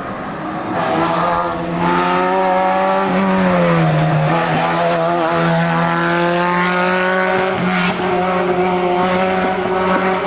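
Historic rally car's engine running hard at high revs, getting louder over the first second or two. Around three to four seconds in, the pitch drops briefly as the car lifts off, then it climbs steadily again under acceleration.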